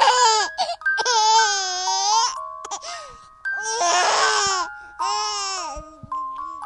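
An infant vocalizing in four or five drawn-out, high-pitched calls, with one rougher, cry-like call in the middle. Soft music of held, bell-like tones plays underneath.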